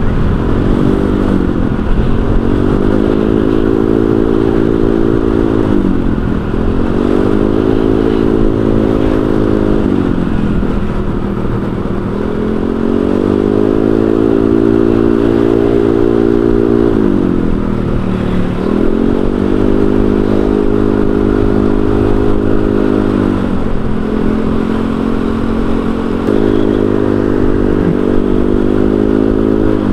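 Honda Vario 125 scooter's single-cylinder engine running through an aftermarket racing exhaust while riding. The note climbs and holds level under throttle, then drops back each time the throttle closes, about six times.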